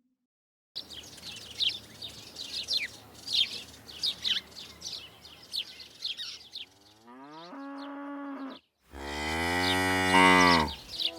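Small birds chirping over a steady outdoor hiss, then cattle mooing twice in the second half: a rising moo that levels off, then a longer, louder one.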